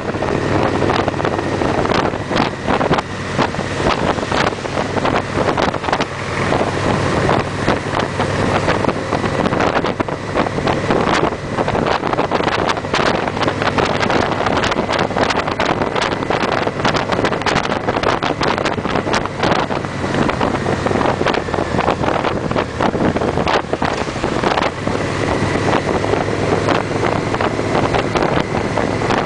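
Victory V-twin motorcycle engines running steadily at cruising speed, with wind buffeting the microphone.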